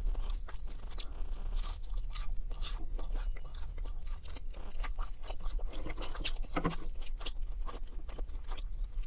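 Close-up chewing of a breaded McDonald's chicken nugget: many small crunches and mouth clicks, with no speech, over a steady low hum.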